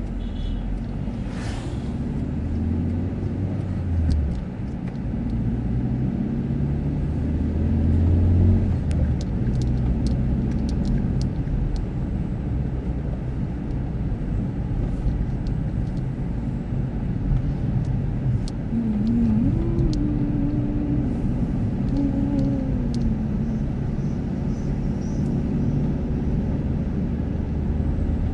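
Car engine running with steady road rumble while driving, its pitch rising and falling a few times in the second half as the engine speeds up and slows.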